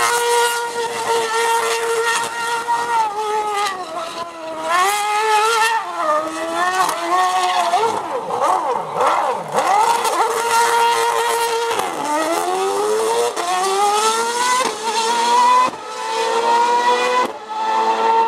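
Supercar engines at high revs: a steady engine note that dips and climbs, with overlapping engine notes in the middle, then a long rise in pitch as a car accelerates hard near the end.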